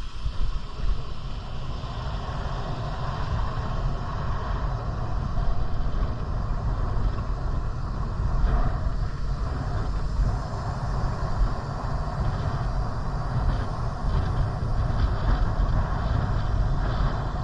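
Steady rumbling noise with a fluctuating low buffeting, typical of wind on the microphone during a bike ride.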